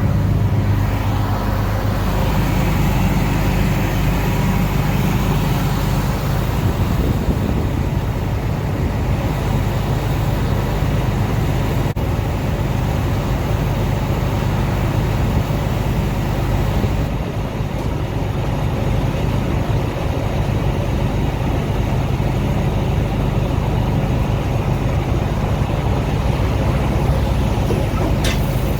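Combine harvester running steadily, a loud even engine drone with a low hum. The level dips briefly a little past halfway.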